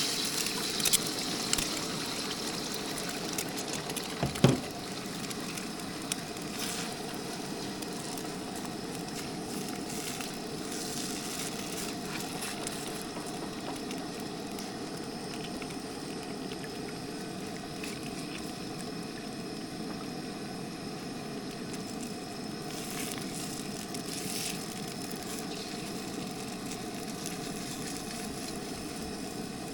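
Beaten eggs frying in hot peanut oil in a wok, sizzling steadily. A few knocks in the first seconds, the loudest about four and a half seconds in, from a utensil striking the wok.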